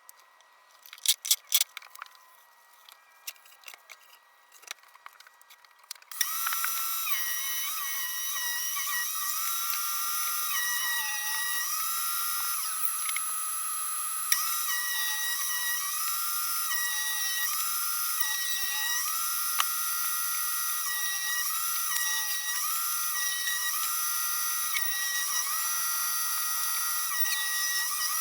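A few clicks and knocks, then about six seconds in an electric circular-saw motor starts suddenly and runs with a high whine. Its pitch sags and recovers again and again, as under repeated load.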